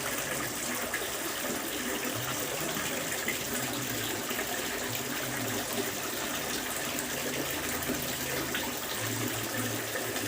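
Water from a fountain running and splashing steadily, with a low hum that comes and goes underneath.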